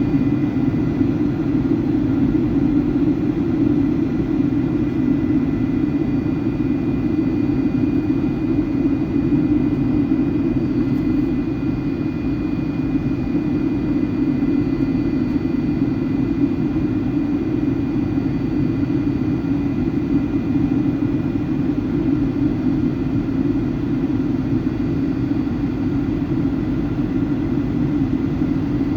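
Boeing 757-200 engines and airflow heard inside the passenger cabin on approach: a steady deep roar with a faint high engine whine above it.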